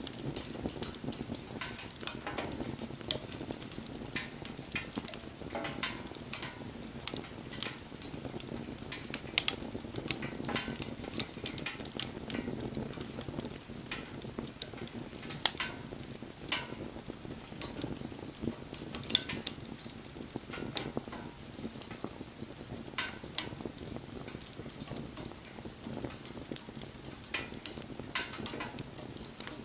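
Wood fire burning, with irregular crackles and pops over a steady low rush of flame; a few pops stand out louder.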